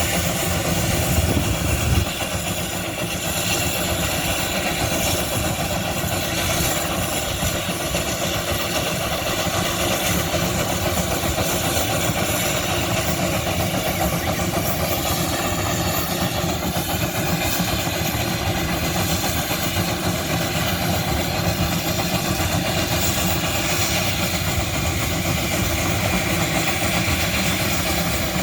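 Old engine running steadily, with a brief low thump about two seconds in.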